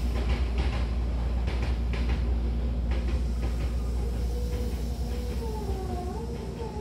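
Hankyu Kobe Line train heard from inside the car as it slows into a station: a steady low rumble with irregular wheel clacks over the rail joints, then a wavering squeal near the end.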